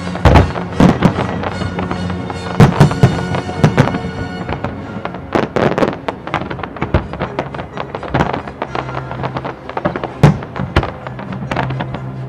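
Fireworks shells bursting in many sharp bangs at irregular intervals, loudest a little after the start, around three seconds in and around ten seconds in, over the pyromusical display's music soundtrack.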